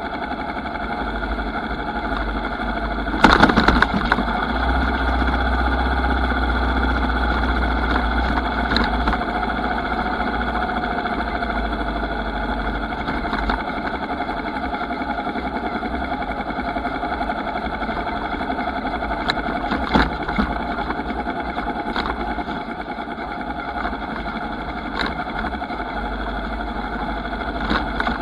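Motorcycle engine running steadily, with a loud burst of clattering about three seconds in and a few sharp knocks later on.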